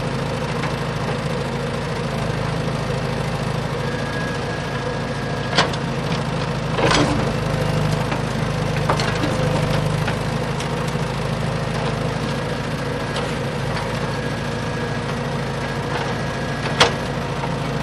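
Small engine of a DIY mini tractor idling steadily, with a few sharp knocks or clicks along the way.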